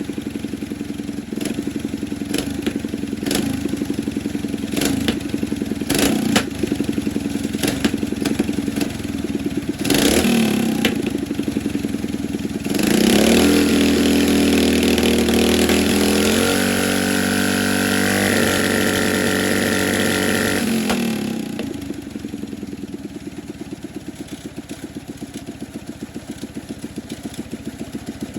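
Coleman mini bike's small single-cylinder engine idling with an even putt, then revved and held at higher speed for about eight seconds, its pitch stepping up partway through, before settling back to idle.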